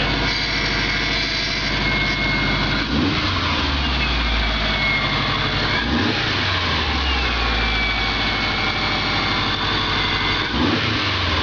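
Modified Subaru EJ25 SOHC flat-four running just after its first start. It changes note three times, about every three to four seconds, with a whine that falls away after each change, like the throttle being blipped and the revs settling back.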